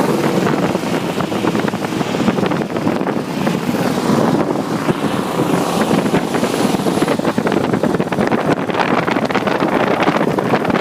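A car on the move: steady engine and road noise, with wind buffeting the microphone.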